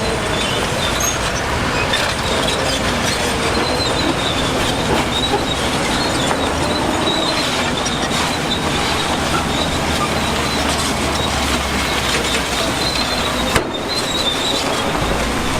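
Crawler bulldozer running steadily, with a wavering high squeal from its steel tracks over the engine noise; the sound breaks off for an instant near the end and carries on.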